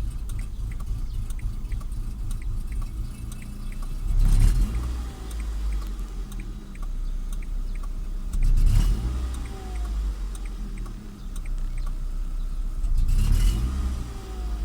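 Renault Laguna II's 1.6 K4M four-cylinder petrol engine running at low revs with a light regular ticking. The revs surge up three times, about every four and a half seconds, and each time drop back. This is the rough, uneven low-rev running the owner is asking about.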